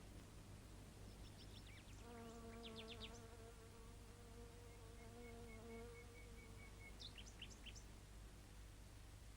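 Faint buzzing of a flying insect with a steady pitch for about four seconds, with a few short, faint bird chirps before and after it.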